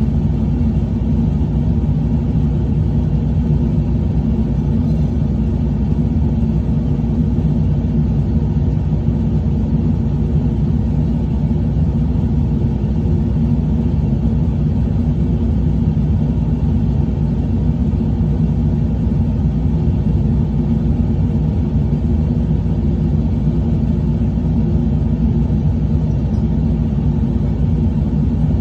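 Truck engine running at a steady speed, an even low drone with no rise or fall in pitch.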